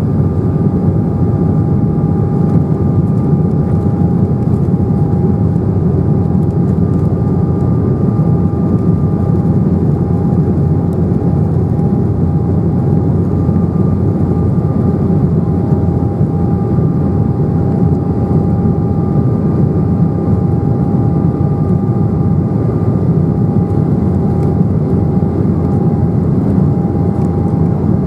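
Cabin noise inside an Embraer 195 airliner: the steady drone of its CF34 turbofan engines and airflow, with two thin steady whining tones over it. It holds even and unchanging throughout.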